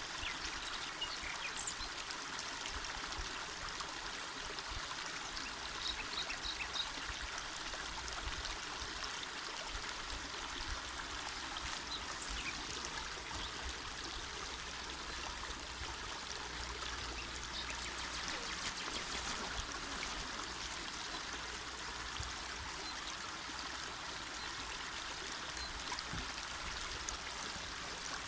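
Small mountain river running over stones: a steady rush of flowing water, even and unbroken.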